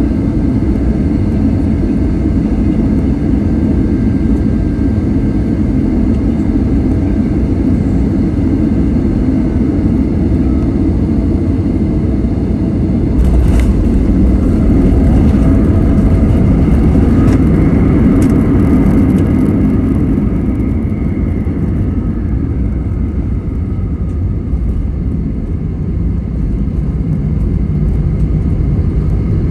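Steady rumble of an airliner cabin during landing. About 13 seconds in, a few sharp thumps come with a louder rush of noise: touchdown and the rollout on the runway. The noise eases off after about 20 seconds as the plane slows.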